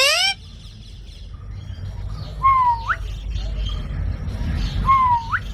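Green parrot calling: a short rising call at the start, then two whistled calls about two and a half seconds apart, each dipping slightly and then sweeping sharply upward. A low rumble runs underneath.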